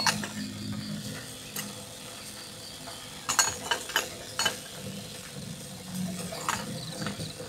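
Wood burning in a small camping wood stove, with a handful of irregular sharp pops and clicks over a low steady rumble.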